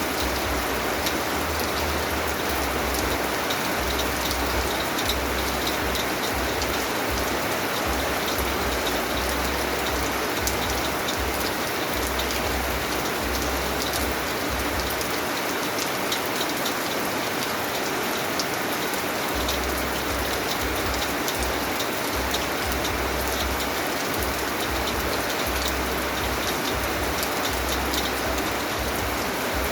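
Steady rain falling: a dense, even hiss speckled with the ticks of individual drops.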